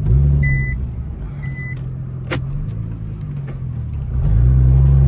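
Nissan GT-R R35's twin-turbo V6 running at low revs, heard from inside the cabin, then revving up and rising in pitch about four seconds in. Early on, two short high beeps sound about a second apart, and there is a sharp click a little past two seconds.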